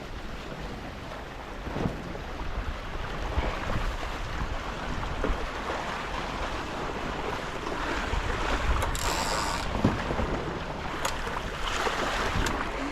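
Water rushing along the hulls of a Tornado racing catamaran under sail, with wind buffeting the microphone; a short burst of hiss, like spray, comes about nine seconds in, followed by a few light knocks.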